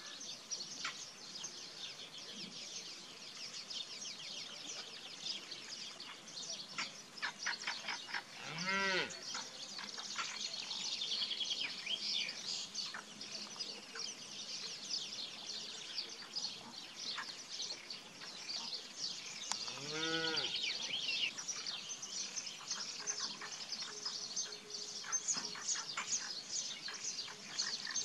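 Cattle mooing twice, two short calls about eleven seconds apart, over steady, dense birdsong chirping.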